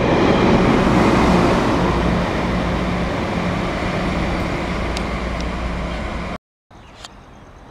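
Spirit of Queensland passenger train running through the station without stopping: a loud, steady rush of wheel and air noise that slowly fades as the train draws away. About six seconds in the sound cuts off abruptly, leaving only faint background noise.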